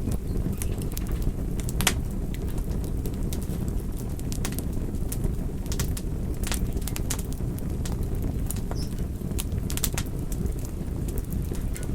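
Wood fire burning: a steady low rumble of flame with irregular sharp crackles and pops, about one or two a second.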